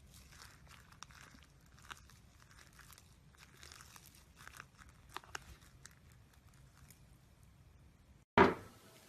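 Slime being handled by hand: soft crackling and crinkling with scattered small clicks. Near the end, after a sudden cut, there is one brief loud noise.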